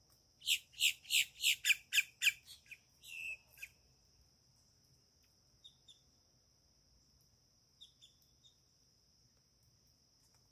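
A bird calling: a series of about seven loud, sharp notes at roughly three a second, trailing off into quicker, fainter notes, then a few faint short chips later on.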